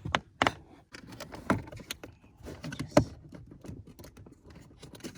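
Scattered clicks, knocks and light metallic rattling as a screwdriver and the plastic HVAC blend door actuator are handled while the actuator is worked loose under a car's dashboard. The sharpest knocks fall about half a second, one and a half and three seconds in.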